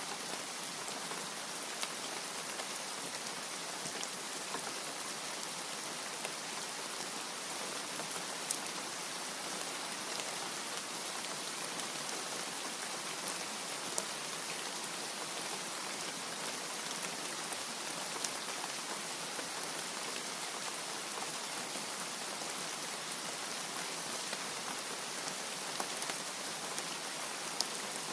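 Steady rain with a constant hiss and scattered sharper drop ticks.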